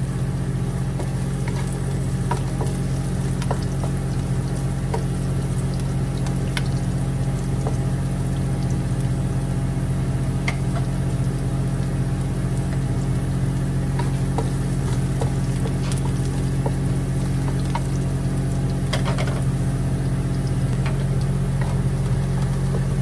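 Chopped onion and garlic sizzling in hot oil in a nonstick wok while the garlic browns, with a wooden spatula stirring and scraping in scattered light clicks. A steady low hum runs underneath.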